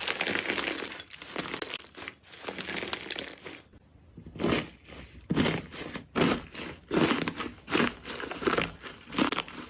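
Jelly slime being squeezed and pressed by hand, crackling and squishing. Continuous crackling at first, a short pause, then a run of separate squeezes about once or twice a second.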